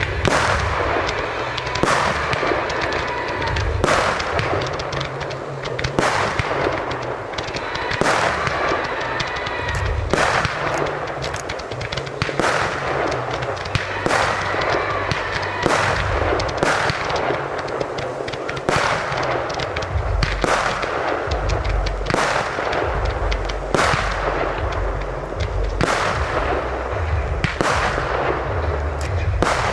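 Fireworks going off in a steady series of sharp, loud bangs, about one every one to two seconds, over a continuous dense din.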